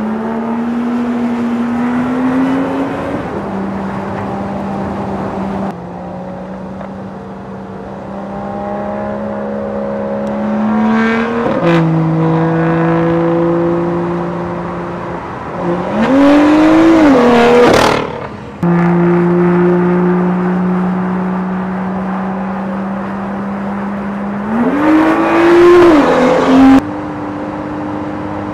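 BMW M2's turbocharged straight-six engine running at a mostly steady pitch, with abrupt steps in pitch as it shifts gear. There are three louder bursts of revving where the note climbs and falls back: about eleven seconds in, around sixteen to eighteen seconds in, and near twenty-five seconds in.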